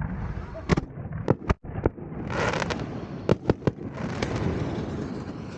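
Consumer fireworks going off: sharp bangs, about four in the first two seconds and a quick run of three a little past three seconds, over a dense crackle that swells about two seconds in.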